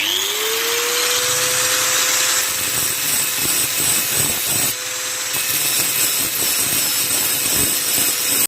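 Electric angle grinder switched on. Its motor whine rises in pitch over the first second or so, then holds steady under a loud, constant hiss, as used for sharpening a brush cutter blade.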